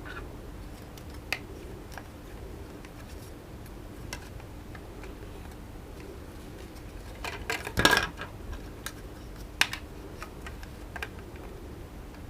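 Scattered clicks and clatter of hard plastic goggle parts being handled, with a quick cluster of louder knocks and rattles about eight seconds in and a single sharp click shortly after.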